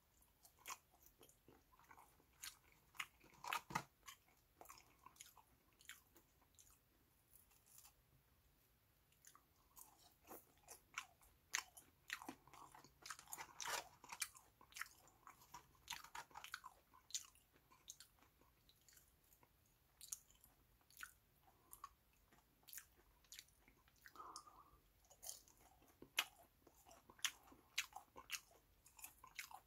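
Close-miked chewing of a fast-food hamburger and french fries: irregular crunches and wet mouth clicks, with busier stretches of crunching in the middle and near the end.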